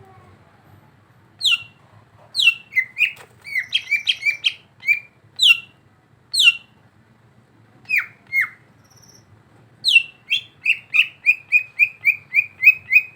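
Cucak ijo (green leafbird) calling: short, sharp notes that slide downward, given singly and in small clusters, then a fast, even run of about a dozen notes near the end.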